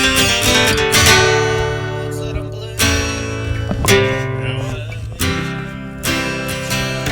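Music with strummed acoustic guitar, chords struck every second or so with notes left ringing between them.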